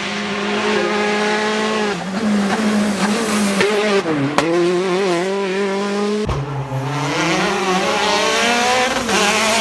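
A loud engine running at high revs that starts suddenly. Its pitch wavers, dips about four seconds in and climbs again near the end.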